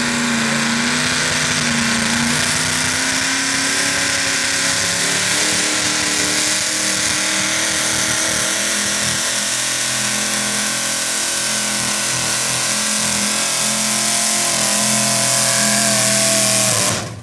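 Small-block V8 engine of a modified 4x4 pulling truck running flat out under load as it drags the sled. The note rises slightly at first, then holds steady, and stops suddenly near the end.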